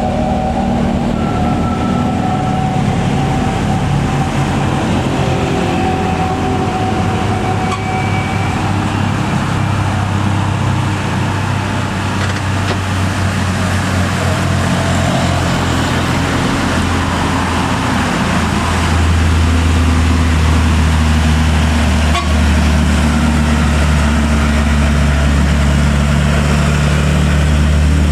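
Heavy diesel truck engines running under load, pulling uphill; about two-thirds of the way through a deeper engine drone grows louder as a truck comes closer.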